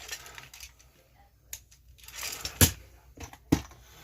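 Handling noise: rustling and small clatter, broken by two sharp clicks in the second half, the first of them the loudest.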